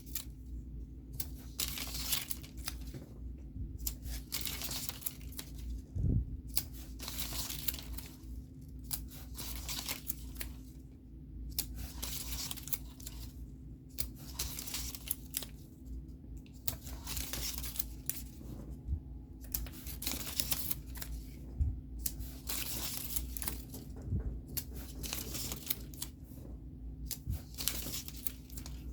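Paper being torn and peeled by hand, over and over, one short hissy stroke every second or so, with a steady low hum underneath.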